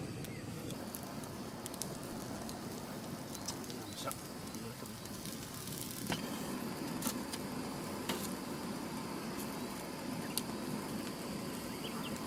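Cooking over a fire: a steady sizzle with scattered sharp crackles.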